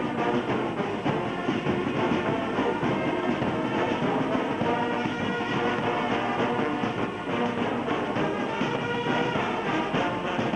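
Band music with brass instruments playing, steady and continuous.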